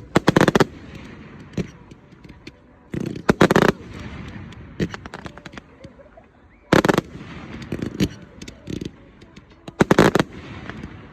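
Fireworks display going off: four volleys of rapid crackling bangs about three seconds apart, with single bangs in between.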